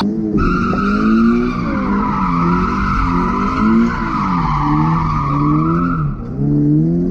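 Car engine revving, its pitch rising and falling again and again, with the tyres squealing as the car skids; the squeal stops about six seconds in while the engine runs on.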